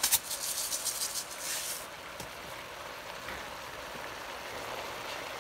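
Pinakbet vegetables frying in soy sauce in a pot over medium-low heat: a couple of sharp clicks at the start and a crackly burst of sizzling over the first two seconds, then a steady, even sizzle.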